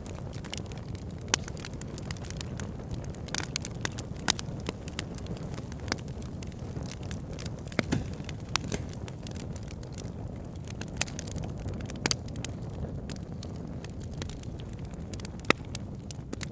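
Wood fire burning in a fireplace: a steady low rumble of the flames with irregular crackles and a few sharp pops from the burning firewood.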